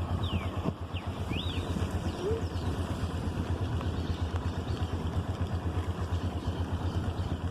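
Motorcycle engine running with a fast, even, low pulse under a steady hiss. A few short high chirps sound in the first couple of seconds.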